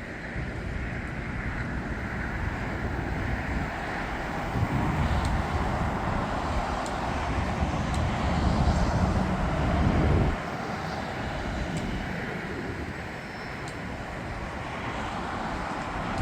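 Jet airliner engine noise: a continuous rumble that builds over several seconds, drops off abruptly about ten seconds in, then swells again near the end.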